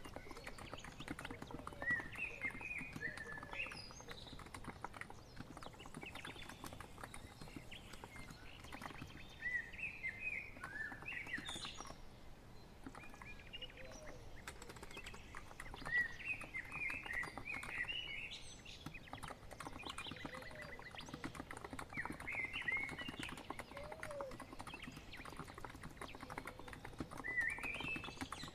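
Steady typing on a COX Empress electro-capacitive keyboard: a continuous patter of soft keystroke clicks. Birds chirp in short phrases every few seconds behind it.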